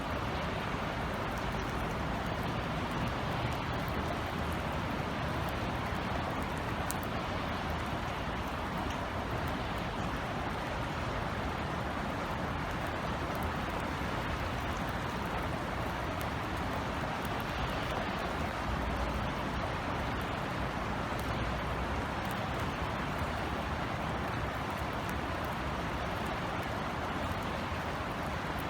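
Steady rain falling, an even continuous hiss with a low rumble underneath and faint scattered drip ticks.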